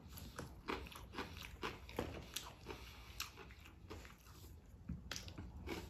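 A man chewing crispy fried chicken: a run of soft, crunchy bites, about two or three a second, with a short pause about four seconds in.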